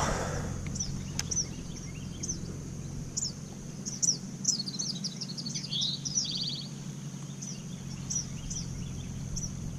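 Songbirds chirping, with short high calls repeating throughout and a quick trill about six and a half seconds in, over a steady low hum.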